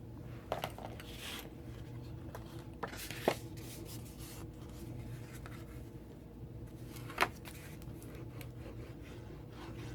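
Paper crafting at a desk: cardstock being handled, slid and rubbed down on the work surface, with a few sharp taps or clicks, the loudest a little after three seconds in and another about seven seconds in.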